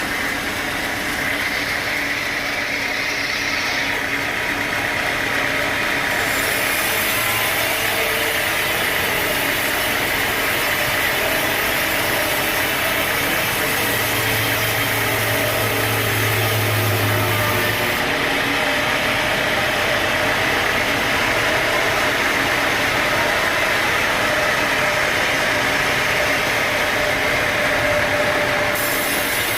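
Sawmill machinery running steadily: a continuous mechanical drone of engine and saw. Its high hiss switches abruptly louder or quieter a few times.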